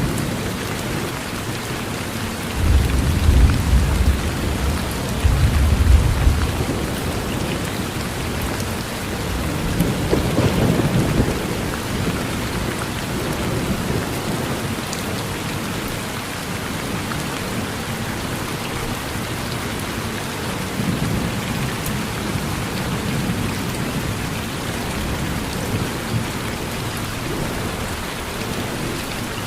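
Steady rain falling on a porch, with low rolling thunder that swells several times: strongest about three and six seconds in, again around ten seconds, and fainter around twenty seconds.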